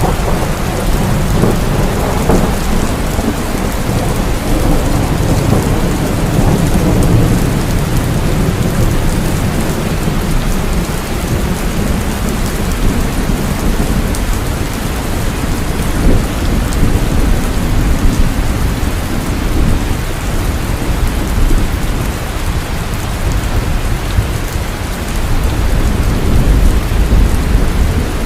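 Heavy rain falling steadily, with low rolling thunder rumbling underneath. The rumble swells near the start and again near the end.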